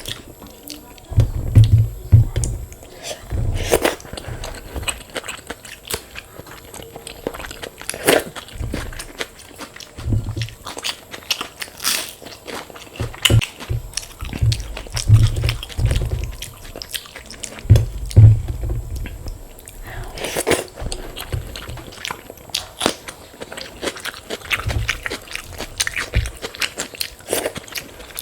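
Close-miked eating: chewing and biting, with repeated sharp crunches and crackles from crisp fried food such as papad and fried potato, over deep thuds from the mouth and jaw.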